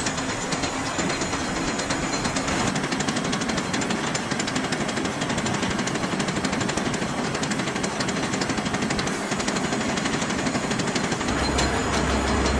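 Metalworking machinery running in a forge and machine shop, a steady fast rattle of rapid strikes. A low hum comes in near the end.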